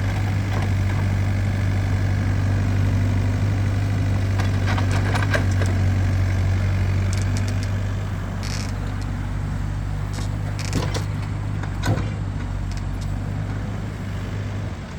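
Vehicle engine running steadily at idle, with a scattered series of sharp knocks and clanks.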